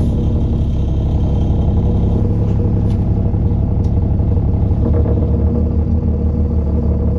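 Alexander Dennis Enviro400 double-decker bus engine running steadily with a low rumble and a few light rattles.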